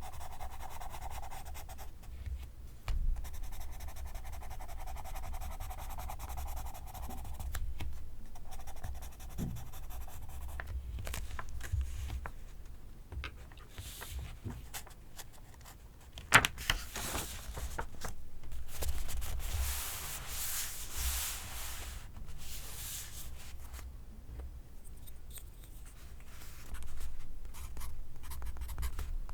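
Pencil writing on paper in short scratching strokes. About halfway through there is a sharp tap, then a longer stretch of louder, harsher scratching.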